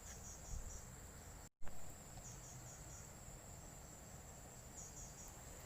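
Insects chirring in a steady, high-pitched chorus over faint background noise. The sound cuts out completely for a moment about a second and a half in.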